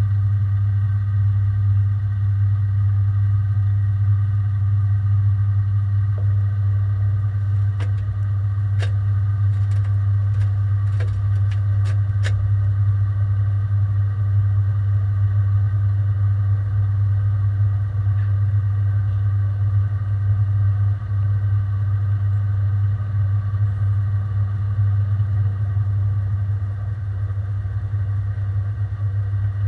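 Front-loading washing machine running, heard from inside its drum: a loud, steady low hum with faint higher tones. A brief run of clicks comes about a third of the way through.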